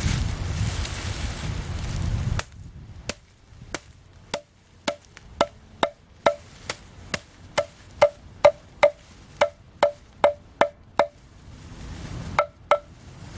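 A series of sharp knocks on wood, each with a short hollow ring, roughly two a second and sometimes in quick pairs, with a pause before two last knocks near the end. Wind and rustling come before the knocks start, about two and a half seconds in.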